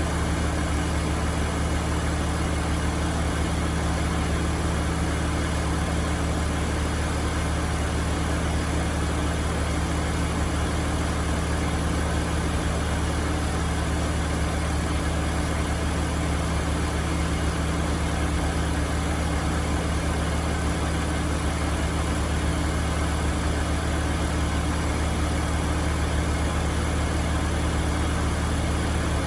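2005 BMW 330Ci ZHP's 3.0-litre straight-six engine idling steadily, its pitch holding even throughout with no revving.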